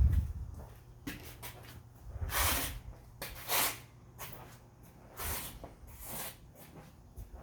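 A person's breathing close to the microphone: about four short, airy exhales or sniffs a second or so apart, after a low thump of the phone being handled at the start.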